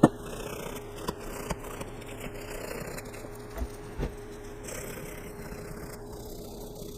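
Small metal starter parts being worked by hand on a bench: light scraping with a few separate knocks and clicks, over a steady background hum.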